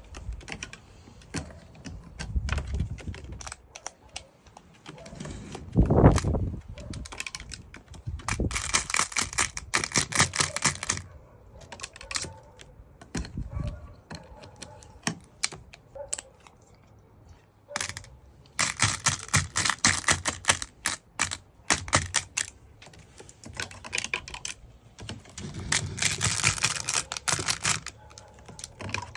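Runs of rapid light tapping and clicking, each lasting a few seconds, heard three times, with a single louder thump about six seconds in.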